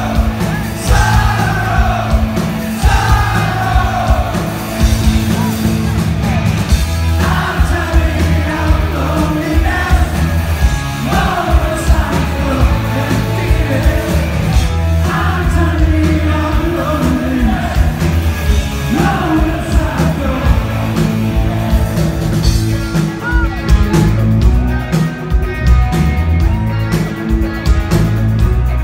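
Live rock band performance with a male lead vocal over electric guitar, bass and drums. Sung phrases come with short gaps between them, and about two-thirds of the way through the singing stops while the guitar carries on.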